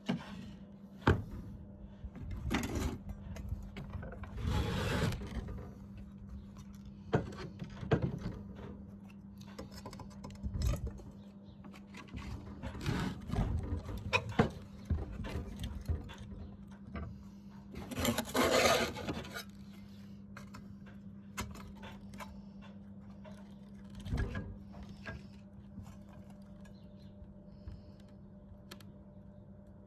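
MIG welder laying short tack welds: two brief bursts of arc noise, about five seconds in and again around eighteen seconds in, with a few shorter ones, over a steady hum. Scattered clicks and scrapes of metal being handled come between the welds.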